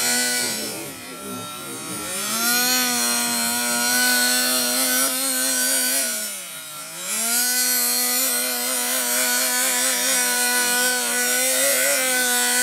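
Small nitro engine of an RC monster truck buzzing at a steady high pitch. It drops in pitch briefly about a second in and again around six and a half seconds, then climbs back up each time.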